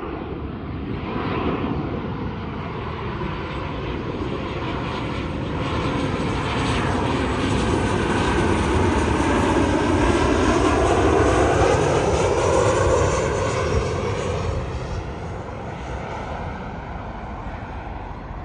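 Jet airliner passing on its landing approach: engine noise swells to a peak about two-thirds of the way through, with a sweeping rise and fall in its whine, then fades as it goes by.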